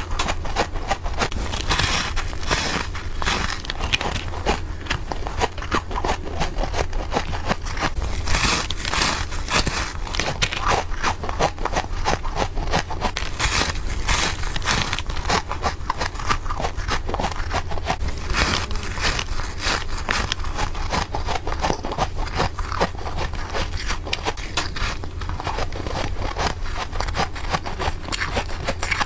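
Freezer frost being bitten and chewed in rapid succession close to the microphone: a dense run of crisp crunches and crackles.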